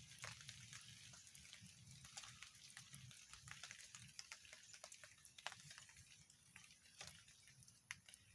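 Faint, irregular crackling and popping of a fire roasting a bird, over a low steady hum.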